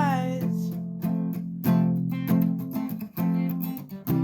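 Acoustic guitar strumming chords in a steady rhythm during an instrumental gap in a song, with the end of a sung note fading out at the start.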